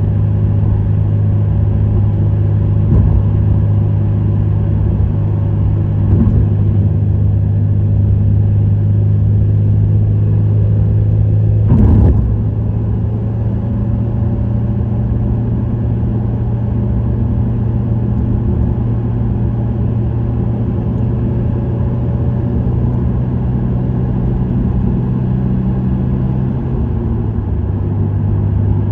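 Subaru WRX STI (VAB) 2.0-litre turbocharged flat-four with an STI Performance muffler, cruising steadily: a constant low engine and exhaust drone. There is a single brief thump about twelve seconds in, and the engine note drops slightly near the end.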